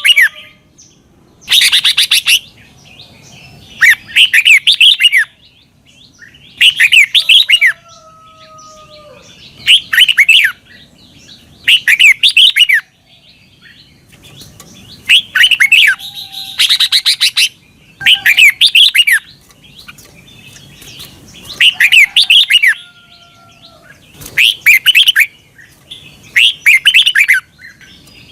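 Red-whiskered bulbul singing loud, short warbling phrases, about one every two seconds, with faint thin whistles in the gaps between them.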